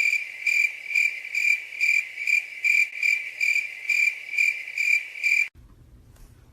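A cricket chirping, a high, even chirp repeated about twice a second, which stops suddenly near the end.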